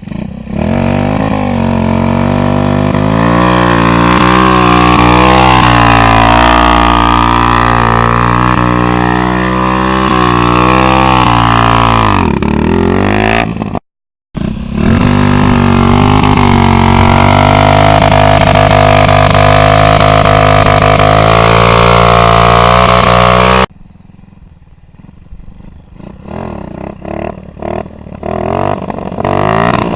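Simson moped's two-stroke engine held at high revs in a burnout, its pitch wavering slightly. It cuts out abruptly twice, and after the second cut comes quieter, uneven revving that grows louder near the end.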